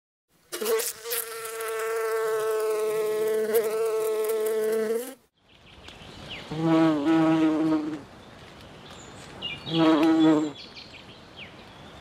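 Honeybees buzzing in flight: first a steady, close buzz for about five seconds, then, after a sudden break, a low swarm hum with two louder buzzes passing close, about seven and ten seconds in.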